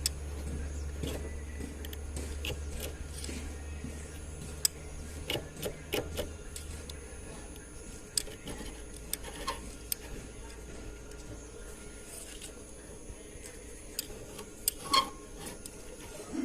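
Scattered metallic clinks and taps, like tools and fittings being handled while a line boring and welding rig is set up, over a low steady hum that drops away about six or seven seconds in.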